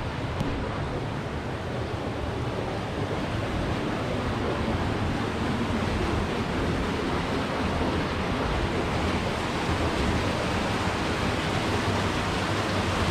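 Steady rush of wind and water from a tour boat under way on a river, with a low drone underneath that is likely the boat's engine; it grows a little louder over the first few seconds.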